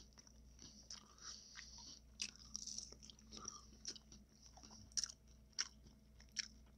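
A person chewing and crunching a taco: faint chewing with short sharp crunches at irregular intervals, a few louder ones in the second half.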